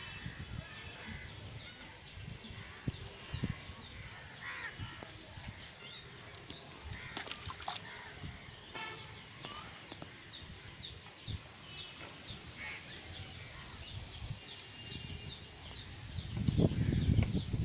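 Birds chirping steadily in the background, a long run of short, quick falling notes, with a few sharp clicks around the middle and a louder low rumble near the end.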